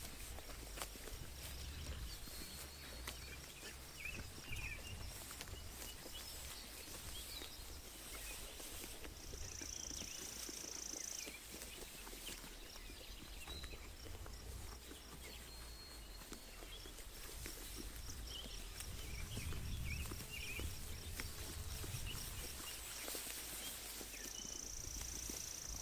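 Sheep grazing close by: a steady run of small crisp ticks from grass being torn and chewed. Small birds chirp now and then, and a high shrill note is held twice, around ten seconds in and near the end.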